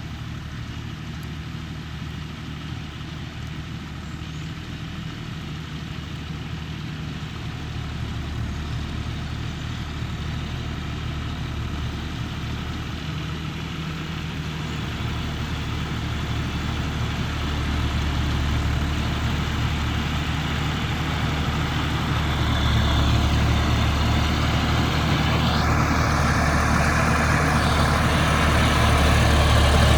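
John Deere 5310 tractor's diesel engine running steadily, growing gradually louder through the stretch.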